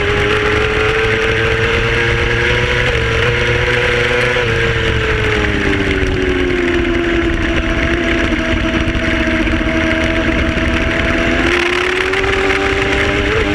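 Racing motorcycle engine running hard at high revs over a steady rush of wind noise. The engine note eases down about five seconds in and holds lower, then climbs again near the end.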